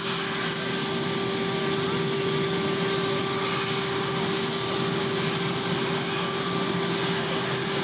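Marine One helicopter's turbine engines running steadily, a constant whine and hum with no change in pitch.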